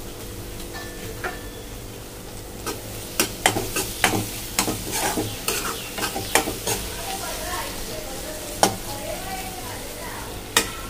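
Spiced onion-tomato masala with peas and sweet corn sizzling as it fries in oil in a kadai, stirred with a metal spoon that scrapes and knocks against the pan. The knocks come in a quick run from about three seconds in, with a single one later.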